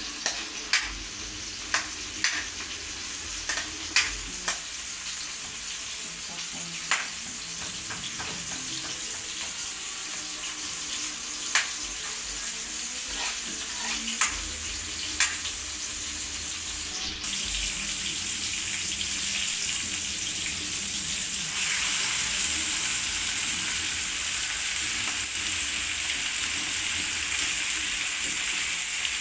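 Onions, tomatoes and garlic sizzling in hot oil in a wok, with a metal spatula clicking and scraping against the pan during stirring. The spatula clicks stop after about fifteen seconds, and in the second half the sizzle becomes louder and steadier, with squid now frying in the wok.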